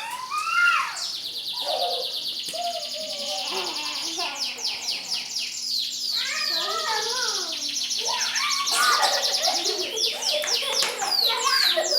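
Domestic canaries singing: long, fast, high trills of rapidly repeated notes, with lower sweeping chirps and whistles mixed in. A faint steady hum runs underneath.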